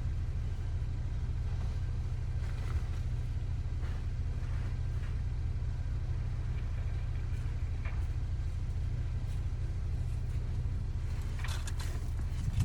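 Truck running with a steady low rumble, and a few light clicks near the end.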